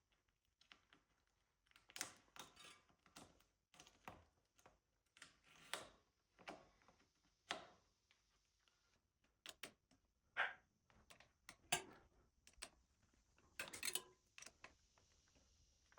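Faint, irregular clicks, taps and clinks of hand tools and metal parts while a mountain bike's mechanical brakes are worked on and adjusted.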